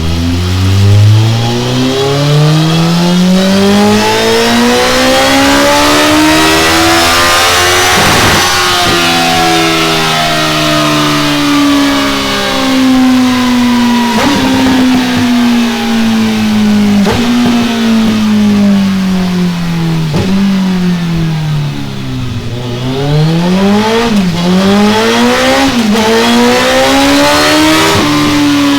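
Kawasaki ZZR1400 inline-four revving through a pair of Delkevic X-Oval titanium silencers on a dyno. The revs climb steadily for about eight seconds, then fall slowly with a few sharp cracks. Near the end come several short throttle blips, and the revs climb again.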